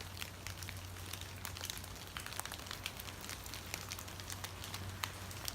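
Rain falling, with many small drops ticking irregularly over a faint hiss and a steady low hum.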